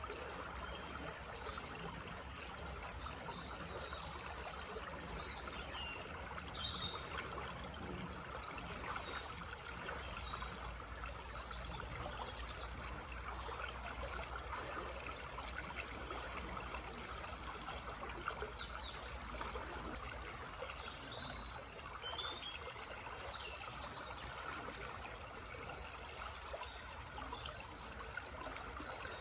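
Small forest stream babbling steadily, with short bird chirps scattered over it.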